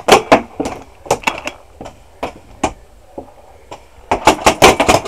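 Paintball markers firing, sharp pops with a few shots near the start, scattered single shots through the middle, and a quick run of shots near the end.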